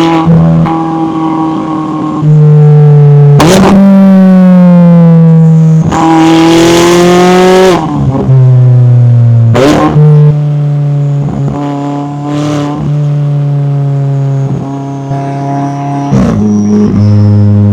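McLaren 570S twin-turbo V8 engine and exhaust running loud under way. The pitch holds, rises and falls as it changes gear, with three sharp cracks at the changes.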